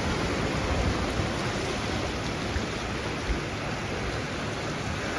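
Sea waves washing onto a beach: a steady rushing wash of surf, with an uneven low rumble underneath.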